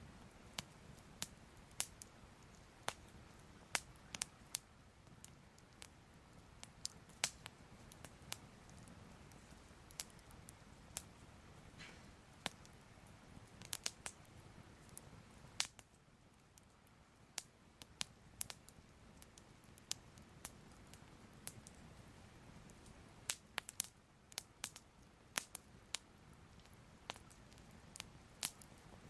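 Soft crackling fire: irregular sharp pops and crackles, a few a second at most, over a low steady hiss, thinning out briefly about halfway through.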